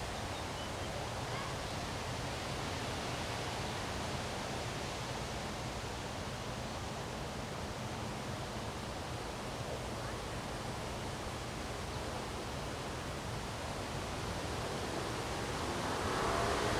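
Strong wind blowing steadily, an even rushing noise that grows a little louder near the end.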